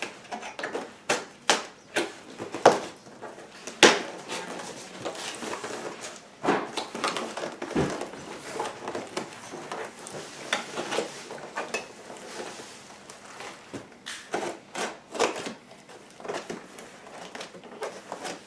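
Cardboard box and packaging being handled during an unboxing: irregular knocks, scrapes and rustling as the contents are worked out of the box.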